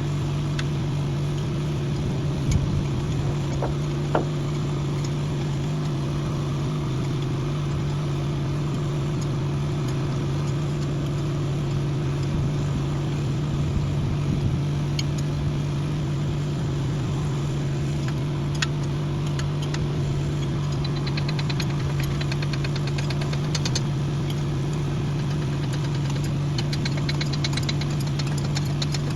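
A machine running steadily with a constant low hum, like an engine at idle. A few sharp taps sound early on, and a fast run of ticking comes in the last third.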